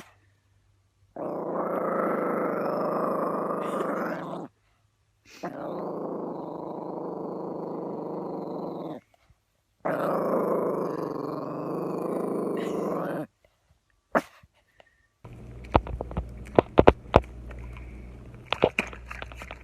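A dog growling in three long, drawn-out growls of about three seconds each, with short pauses between. Near the end a run of sharp clicks and knocks takes over.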